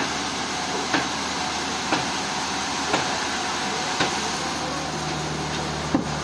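Sawmill machinery running steadily, with a sharp click about once a second.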